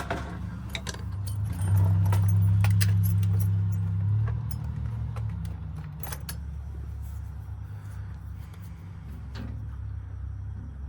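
Light metallic clicks and taps of small lock parts being handled while a rekeyed Ford door lock cylinder is reassembled. A low steady hum swells for a couple of seconds near the start and is the loudest thing heard.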